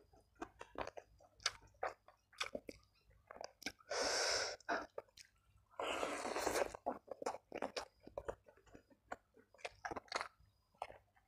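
Close-miked eating sounds: a man chewing a fried omelette and rice, with many short wet mouth clicks and smacks. About four and six seconds in come two louder crunching bites, each lasting about a second.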